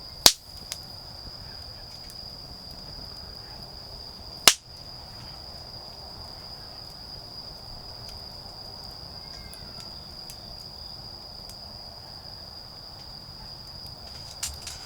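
Autumn insects calling in one steady, unbroken high-pitched trill. Wood in a campfire pops sharply and loudly twice, about a third of a second in and about four and a half seconds in, with a few faint crackles in between.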